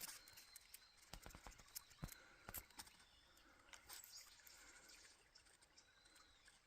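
Near silence: faint outdoor ambience with scattered small clicks and a few faint high chirps.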